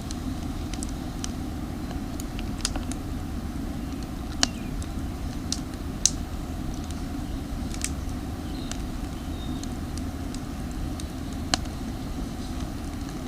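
Campfire of damp firewood crackling, with about a dozen sharp irregular pops and snaps, the loudest about four and a half, six and eleven and a half seconds in, over a steady low rushing noise.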